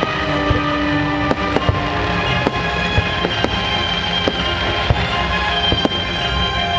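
Aerial fireworks bursting, a dozen or so sharp bangs at irregular intervals, over music that plays throughout.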